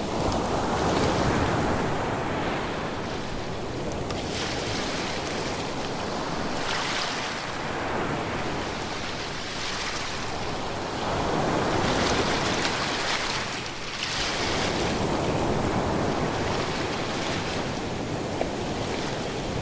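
Ocean waves breaking and washing ashore, a steady rush of surf that swells and eases every five seconds or so.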